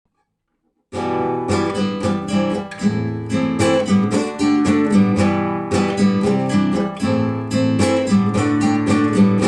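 Acoustic guitar strumming chords, starting about a second in after a moment of silence: the instrumental intro before the singing.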